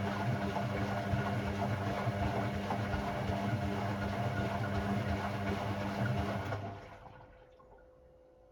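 Hoover Sportswear 1300 AI130 washing machine with a steady mains hum and rushing water, the sound of its pump or water valve working during the wash cycle. It cuts off about seven seconds in.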